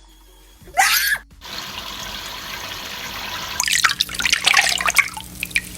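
Water running steadily from a tap, with heavy splashing and spattering starting about three and a half seconds in. Near the start there is one short, loud, rising call.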